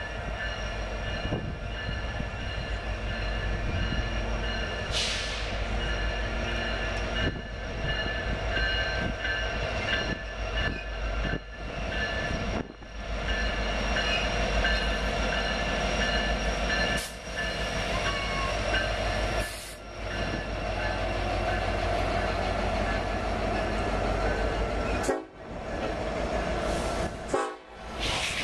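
A Union Pacific freight train led by SD70AH diesel locomotives rolls past close by, its engines making a heavy, steady rumble. The locomotive horn sounds over it.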